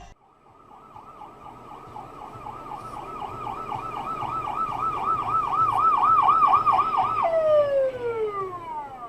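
Emergency vehicle siren on a fast yelp, growing louder, then about seven seconds in it switches to one long falling tone.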